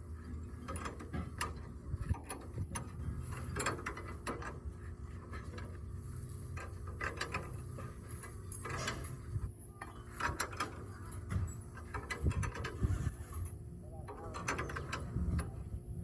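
Irregular mechanical clicking and clanking of hand tools working on metal, over a low steady hum.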